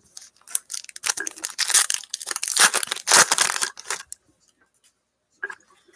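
Foil wrapper of a 2018 Donruss Optic football card pack being torn open and crinkled for about four seconds, then a few faint ticks of cards being handled near the end.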